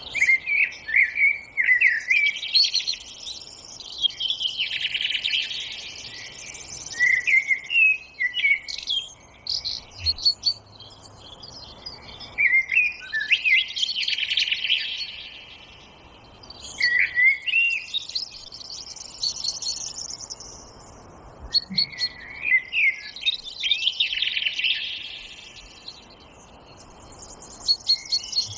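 Songbirds singing in a forest, in bouts every few seconds, each made of quick sweeping chirps followed by a fast trill.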